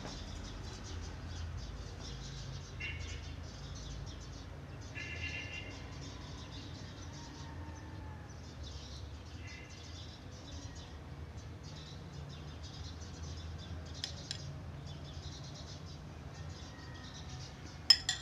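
A few short bird chirps over a steady low hum, with a couple of sharp clinks of dishes near the end.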